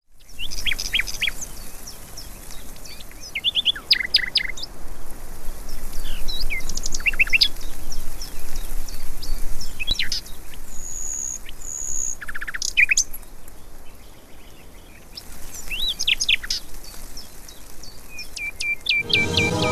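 Songbirds chirping and singing in a lively chorus of short calls, trills and a couple of held high whistles, over a steady hiss. Music comes in near the end.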